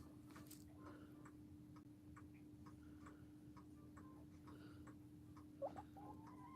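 Faint, steady tick-tock of an old mechanical clock, whose chimes are turned off, over a low steady hum. A soft brief sound rises about five and a half seconds in.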